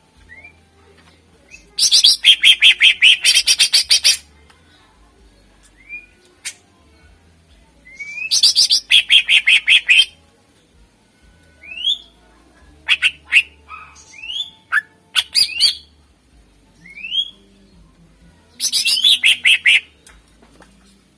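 Greater green leafbird (cucak ijo) singing: three loud, rapid rattling bursts of about two seconds each, with short single upslurred whistles and chips in the gaps between them.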